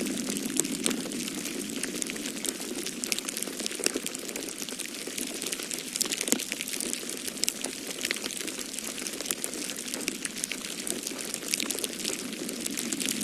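Wood fire crackling in a fireplace: a dense run of small pops and snaps, with a few sharper cracks, over a steady hiss and low rush.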